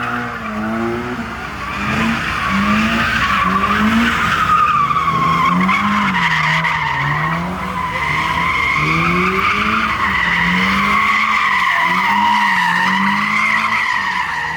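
A car spinning donuts, its tyres screeching without a break while the engine revs rise and fall over and over.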